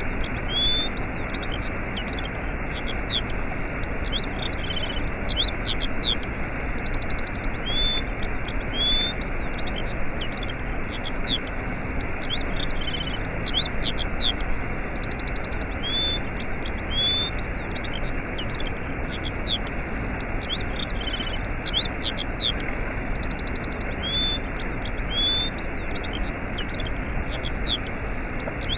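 A waterfall's steady rushing, with small birds chirping over it in quick high calls and a short buzzy trill. The bird sequence comes round again about every seven seconds, as a loop.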